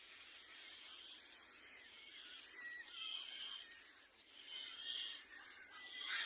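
Raspy, hissing bird calls in repeated short bouts, high-pitched and wheezy.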